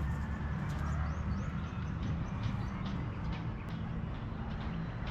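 Small birds chirping faintly over a steady low rumble.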